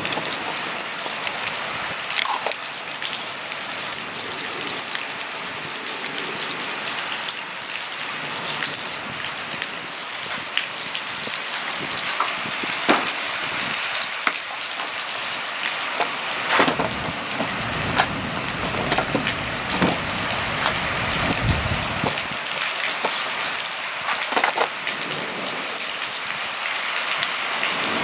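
Steady rain from a thunderstorm falling and hitting surfaces, with scattered sharper drop taps now and then and a brief low rumble about twenty seconds in.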